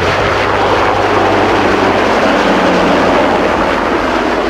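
Westland Wessex helicopter flying close by, a loud continuous rush of engine and rotor noise with a steady low hum that fades out about halfway through.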